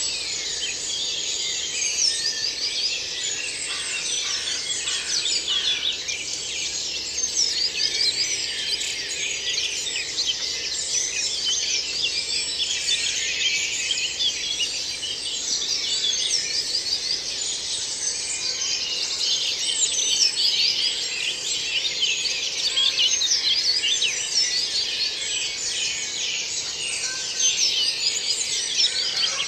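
Woodland dawn chorus: many songbirds singing at once in a dense, continuous tangle of overlapping songs and trills.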